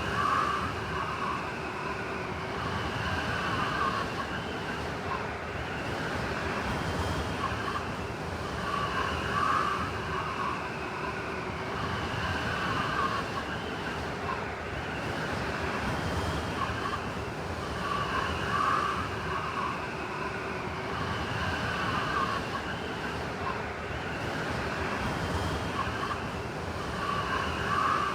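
Blizzard wind sound effect: a steady rushing of wind with swells that come back about every nine seconds, like a repeating loop.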